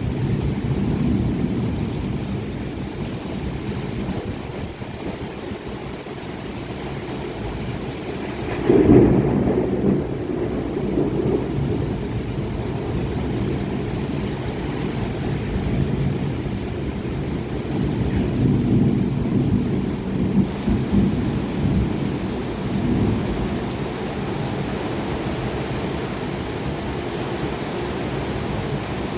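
Heavy rain falling steadily during a thunderstorm, with thunder rumbling underneath; a louder thunderclap breaks out about nine seconds in, and further rolls of thunder swell up about two-thirds of the way through.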